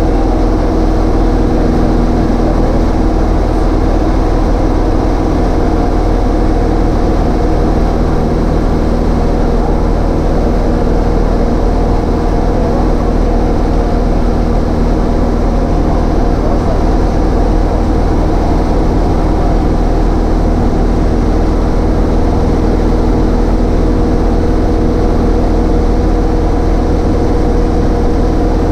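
Cessna 152's four-cylinder Lycoming engine and propeller droning at steady power in flight, a loud constant hum with no change in pitch.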